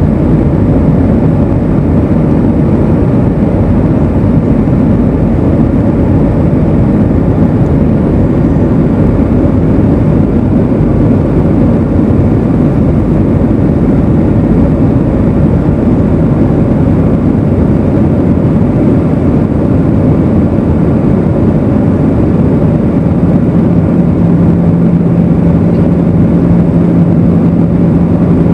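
Airbus A320 passenger-cabin noise in flight: a loud, steady rumble of engines and airflow. A steady low hum joins in near the end.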